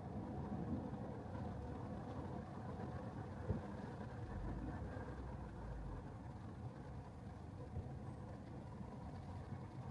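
Steady low road and tyre rumble of an electric Tesla Model 3 rolling over wet city pavement, with a single knock about three and a half seconds in.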